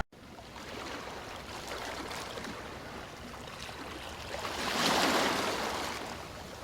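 Sea waves washing against the shore in a steady hiss, with one wave surging in louder about five seconds in.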